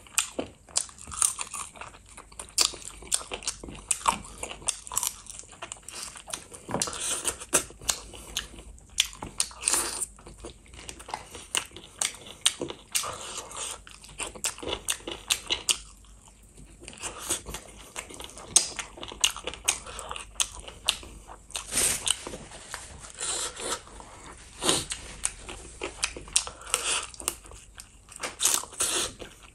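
A person biting and chewing saucy chicken feet close to the microphone: irregular wet smacks, sucks and crunches, with many sharp clicks and a few brief pauses.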